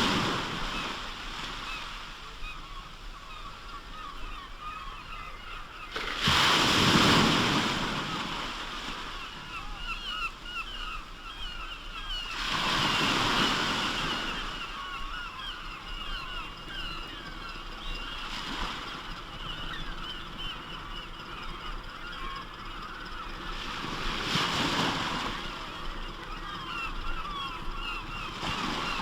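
Waves breaking on the shore about every six seconds, over a large flock of birds calling without pause.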